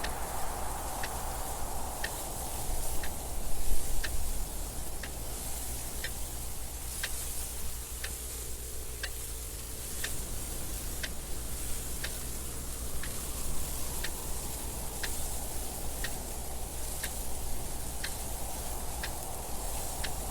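A clock ticking steadily at one tick a second over wind noise that rises and falls in gusts, the strongest gust a few seconds in.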